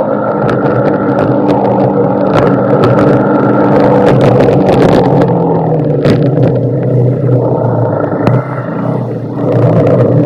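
Motorcycle engine running steadily under way, with heavy wind and road noise; the engine eases off briefly about eight seconds in, then picks up again.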